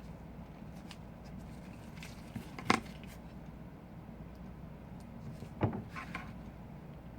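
Small taps and knocks of tools and phone parts being handled on a workbench, the loudest about two and a half seconds in and another near five and a half seconds, over a steady low hum.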